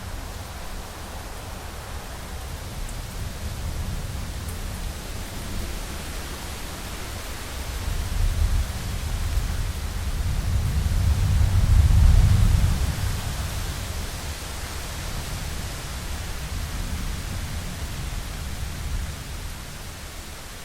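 Heavy rain beating on a window, a steady hiss. A low rumble of thunder builds in the middle, loudest about twelve seconds in, then fades away.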